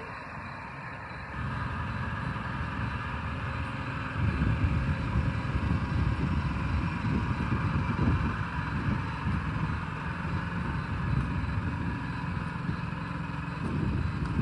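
Isuzu NRR truck's diesel engine running steadily, getting louder about a second in and again a few seconds later.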